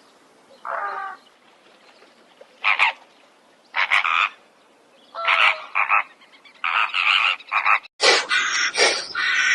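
Short animal calls, one at a time with gaps between them, then about eight seconds in a faster run of louder calls, roughly three a second.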